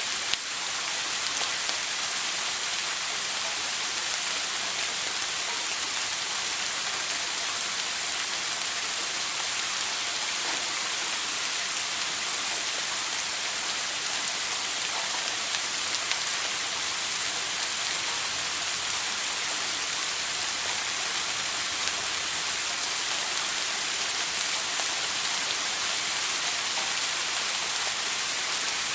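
Shower water spraying in a steady, even hiss, with a brief dip in level just after the start.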